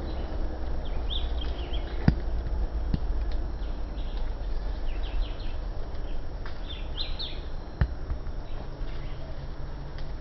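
Small birds chirping in short, scattered high calls over a steady low rumble. Two sharp clicks stand out, about two seconds in and again near the end.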